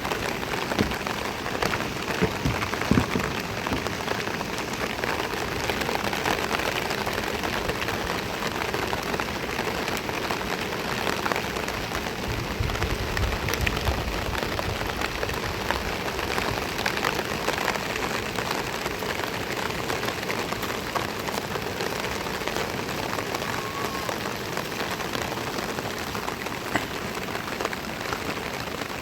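Rain falling steadily, with many small drops ticking close by. A brief low rumble comes about twelve seconds in.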